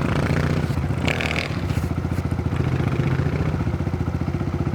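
Pit bike's small single-cylinder engine running steadily at low revs.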